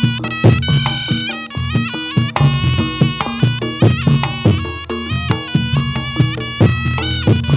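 Reog Ponorogo gamelan music for jathilan dance: a reedy, nasal slompret melody moving between held notes, over a steady drone and regular drum strokes from the kendang.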